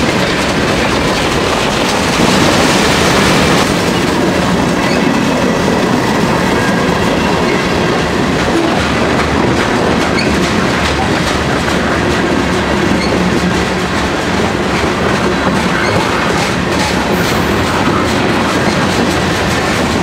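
A freight train of boxcars and covered hoppers rolling past at close range: a steady clatter of steel wheels on the rails, with many small clacks and knocks from the cars.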